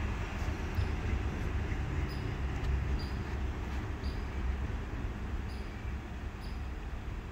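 Low rumble of a ballast cleaning train moving away into the distance, slowly fading. Faint short high chirps repeat about once a second over it.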